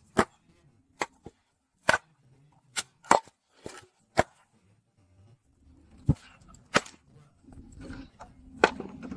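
Wood fire crackling: a dozen or so sharp, irregular pops and snaps from burning firewood.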